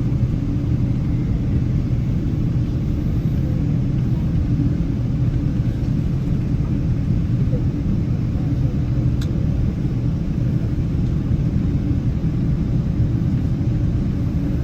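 Boeing 777 cabin noise on the ground before takeoff: the steady low rumble of the jet's engines running, heard from inside the cabin. One faint click about nine seconds in.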